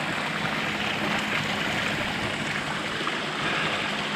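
Steady rush of a mountain creek running over rocks.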